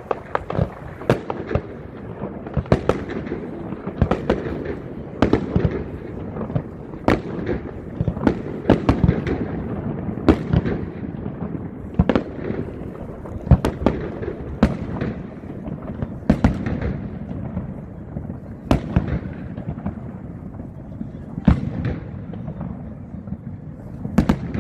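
Fireworks display: aerial shells bursting one after another, roughly one sharp bang every second, over a continuous rumble of launches and crackle.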